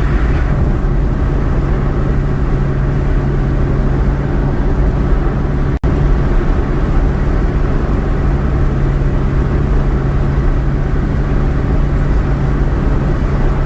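Steady road and engine noise of a car being driven, a constant low drone with no change in pitch. The sound cuts out for an instant about six seconds in.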